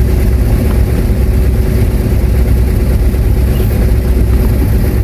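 Heavy diesel earthmoving machinery engine running steadily under load, a constant deep rumble.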